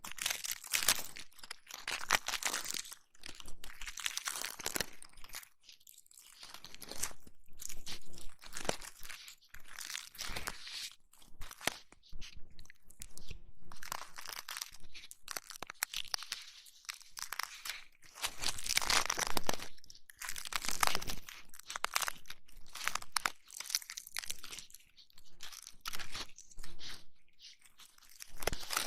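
Fingers rubbing and massaging close against a microphone's ears, giving a crackly, crunchy scratching that swells and fades every few seconds.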